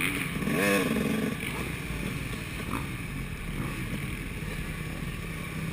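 Motocross motorcycles running on the track, a steady engine noise with one brief rise and fall in pitch about half a second in.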